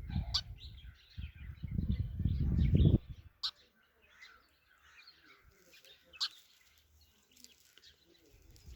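Sparrow chirping in short high notes, with two sharp clicks about three and a half and six seconds in. Loud low thuds fill the first three seconds.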